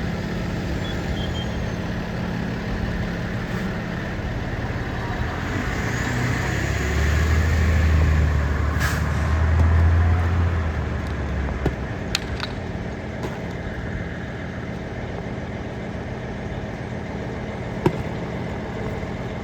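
Heavy truck engine running, then pulling away with a deep rumble that swells for a few seconds about seven seconds in and fades, with a brief air-brake hiss in the middle.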